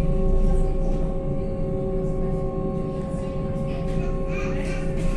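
Electric river tram's drive humming steadily underway, a few fixed whining tones over a low rumble from the hull. Faint voices murmur in the background.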